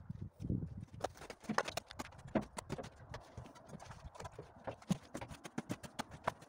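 Masonry work on a fireplace: a trowel tapping and knocking bricks or stones into mortar and scraping. It comes as a quick, irregular run of sharp clicks and knocks, with a few duller thuds about the first second.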